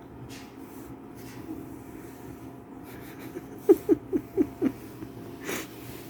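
Pet pig grunting: a quick run of five short grunts, each falling in pitch, about four a second past the middle. A short breathy huff follows.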